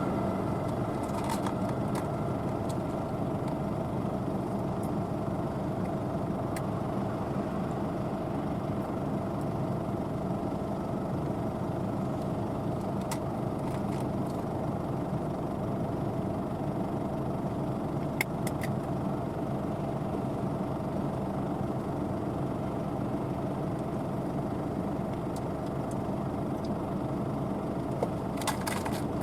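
Claas Lexion 770 TT combine harvester running steadily under load, a continuous engine and machinery drone with a few light clicks.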